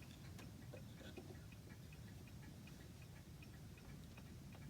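Near silence with a clock ticking faintly and steadily, about four ticks a second, and one or two soft clicks.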